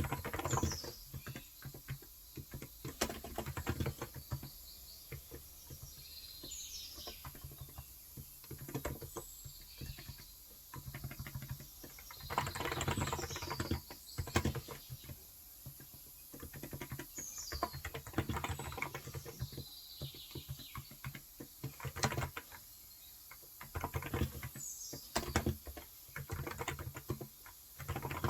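Typing on a Cox Endeavour electro-capacitive (non-contact) 35 g tenkeyless keyboard: runs of fast keystrokes with short pauses between them. Birds chirp in the background, giving short falling calls every few seconds.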